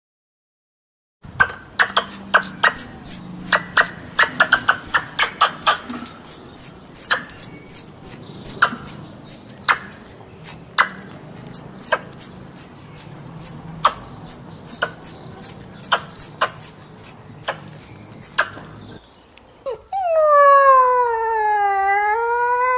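A rapid run of sharp clicks, each with a high falling chirp, two to three a second, from an animal. Near the end a dog howls: one loud, long, wavering whine that sinks and then rises in pitch.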